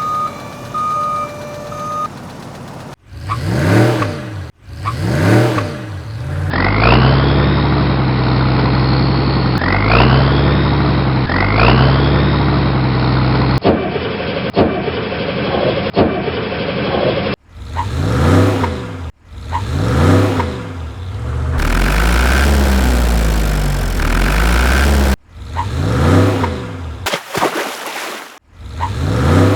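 A run of engine sound effects spliced together: vehicle engines revving up and down in short clips, each cut off suddenly. Between about seven and thirteen seconds in, a duller engine sound rises in pitch three times, as if shifting up.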